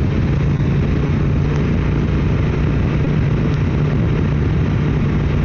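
Motorcycle engine running at a steady cruise, a constant low hum under continuous road and wind noise.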